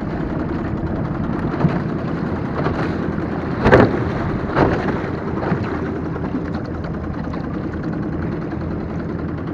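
Boat motor running steadily, with two sharp thumps a little under a second apart about halfway through.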